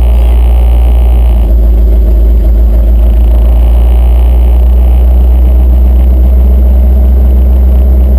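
Pulling truck's engine running loud and steady, a deep drone that holds one pitch.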